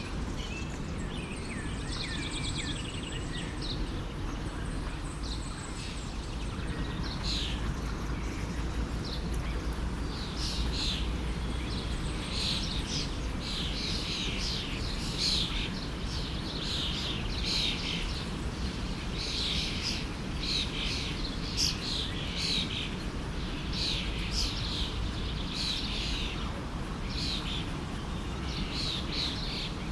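Songbirds chirping in quick, repeated phrases over the steady rush of a forest stream. The birdsong thickens from about seven seconds in.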